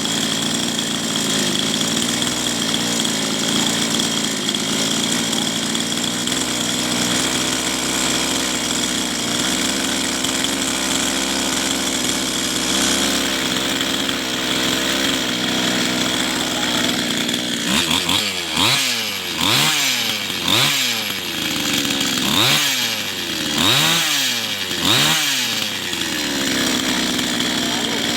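Small petrol engine fitted with a new aftermarket carburettor, idling steadily. Starting about two-thirds of the way in it takes about six quick throttle blips, each rev rising and falling in pitch, then settles back to idle. The blips test how the carburettor responds to the throttle.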